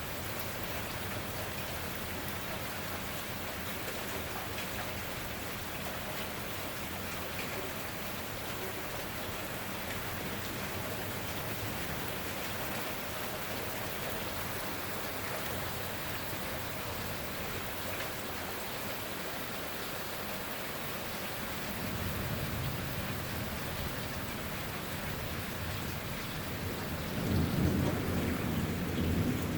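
Steady heavy rain, with thunder rumbling about two-thirds of the way through and a louder peal of thunder rolling near the end.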